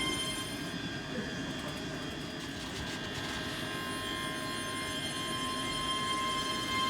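Train running at a railway station: a continuous rumble with steady high whining tones over it.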